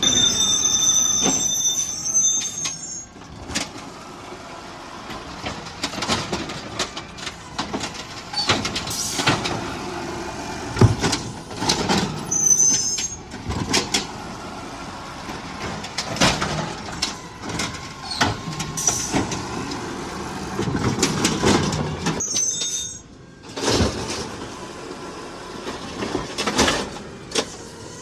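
Garbage truck at work: the engine runs under repeated clanks and bangs, with short high-pitched squeals at the start, again about twelve seconds in and again near twenty-two seconds.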